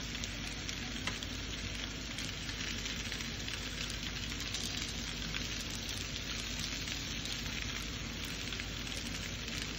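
Banana peels frying in avocado oil on an electric griddle at 400 degrees, a steady sizzle.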